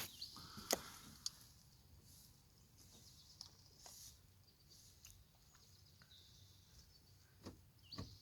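Near silence with a faint background and a few scattered faint clicks, the sharpest about three-quarters of a second in.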